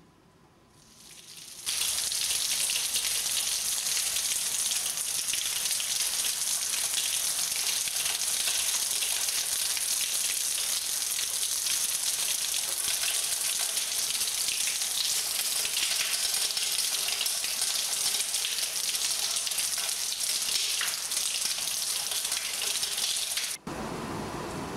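Heavy rain pouring down and splashing into standing water on pavement, a dense, even hiss. It comes in suddenly about two seconds in and, near the end, gives way to a quieter, duller wash of rain.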